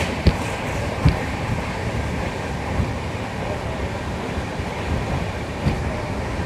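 Steady rumble and rushing air of a moving passenger train, with two sharp knocks in the first second or so.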